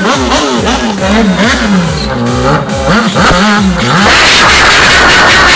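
Motorcycle engine revved hard in quick repeated throttle blips, its pitch climbing and falling about twice a second. About four seconds in, loud music cuts in over it.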